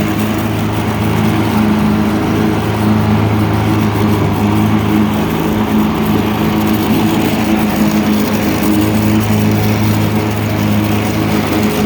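Engine running steadily at an even speed, with no change in pitch.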